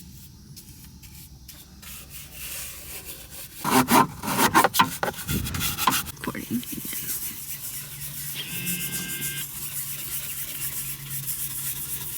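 Rubbing and scraping noises close to the microphone, loudest for a couple of seconds a few seconds in.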